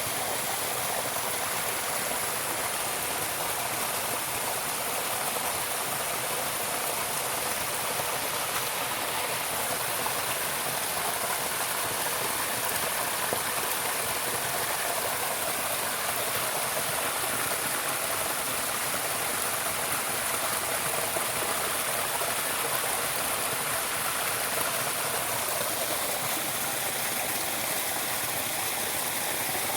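Steady rush of running water, like a stream over rocks, with no let-up.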